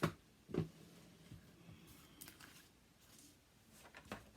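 A few light clicks and taps from craft materials being handled on a worktable, two near the start and a couple more near the end, over quiet room tone.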